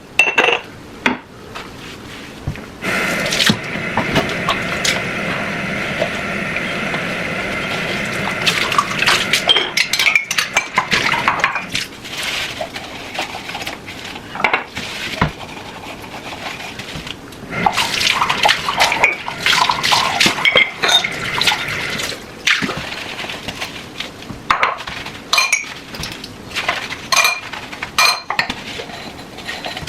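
Dishes and cutlery clinking and clattering as they are handled, with water running steadily for about six seconds a few seconds in.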